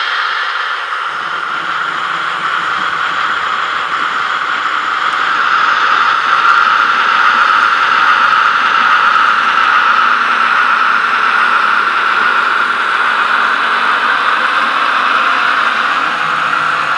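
Sound decoder's diesel engine sound for a DR class 106 shunting locomotive, played through the tiny speaker of a TT-scale model. The engine sound runs steadily, picking up a little about six seconds in.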